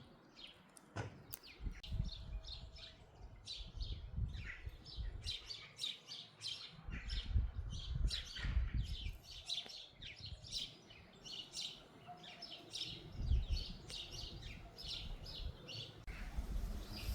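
Small birds chirping, many short high calls in quick succession throughout, over an uneven low rumble.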